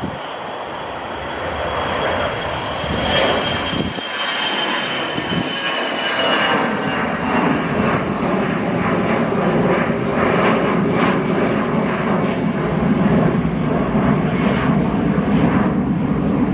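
Airliner's engines passing close by: a high whine falling slowly in pitch while the roar grows steadily louder, with a deep rumble building through the second half.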